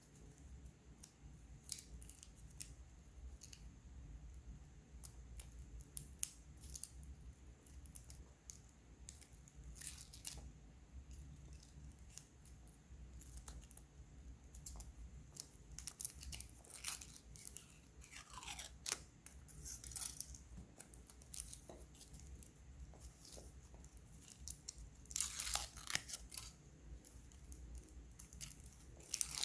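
Kinder Surprise eggs being unwrapped and opened by hand: scattered small clicks and cracks, with louder bursts of foil crinkling and tearing about halfway through and again near the end.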